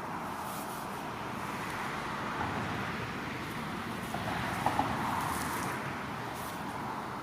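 A road vehicle passing: a steady rumble of engine and tyres that swells about four to five seconds in and then fades, with two short clicks at its peak.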